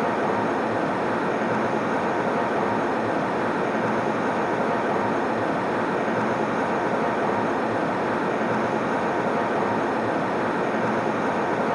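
Airplane cabin noise in flight: a steady, even rushing hum, strongest in the low and middle range, with no changes or separate sounds.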